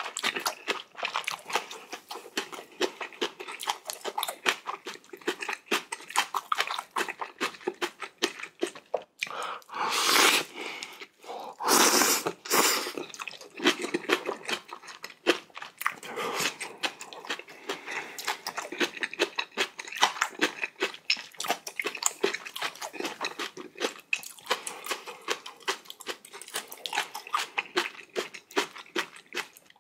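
A person eating close to the microphone: steady chewing and biting with frequent crunches and quick wet mouth clicks. Two longer, louder rushing sounds come about ten and twelve seconds in.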